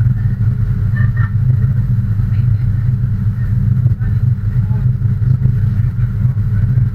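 A motor vehicle's engine running steadily with a constant low rumble, with faint voices in the background.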